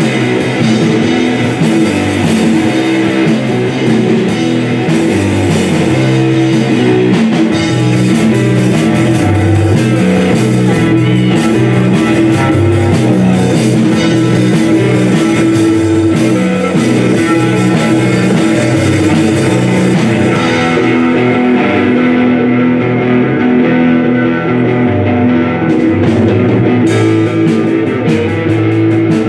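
Rock band playing live, with guitar, bass guitar and drum kit. Late on, the cymbals drop out for a few seconds and then come back in.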